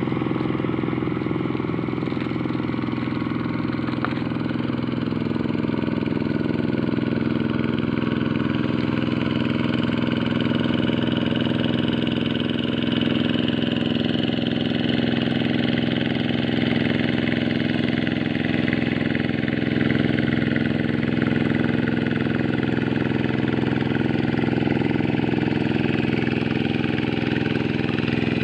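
Engine of a Quick G1000 walk-behind hand tractor running steadily, its note shifting slightly about a third of the way in.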